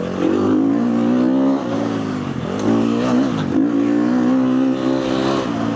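KTM four-stroke motocross bike engine under load on track, its revs dropping and climbing back twice as the throttle is shut and reopened, then falling away near the end.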